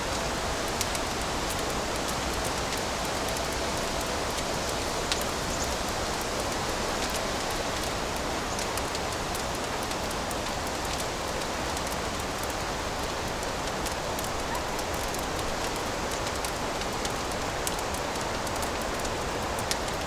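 Wood fire in a fireplace crackling: a steady hiss with scattered sharp pops.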